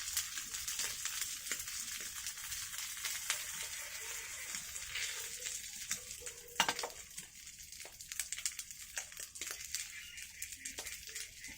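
Food sizzling and crackling in a hot pan. The sizzle thins out about two-thirds of the way through, where a single sharp knock stands out.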